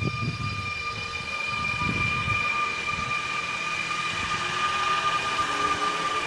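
A train moving through the station: low rumbling in the first couple of seconds under a steady high-pitched whine that holds throughout, with faint rising tones coming in near the end.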